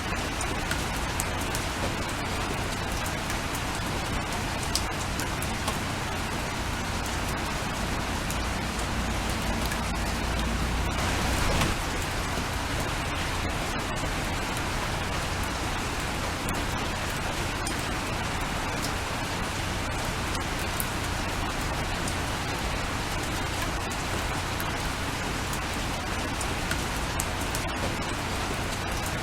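Steady rain with scattered sharp drop ticks, as of raindrops on a window. A low rumble swells about eight seconds in and stops abruptly a few seconds later.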